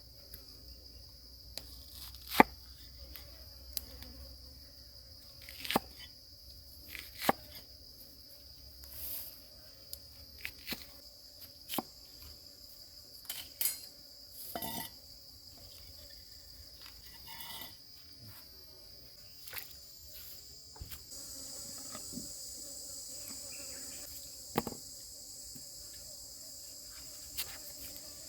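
Steady high-pitched drone of an insect chorus, with a dozen or so sharp clicks and knocks scattered through it; a wider hiss joins the drone about three-quarters of the way in.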